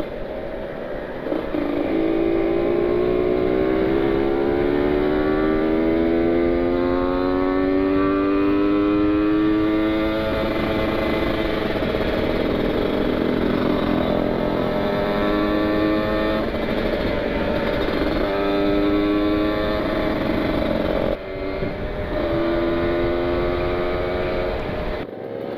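Kawasaki Ninja 150 RR's two-stroke single-cylinder engine pulling hard under way, its pitch climbing through each gear and dropping back at each upshift: one long climb, then several shorter ones, with wind rushing past.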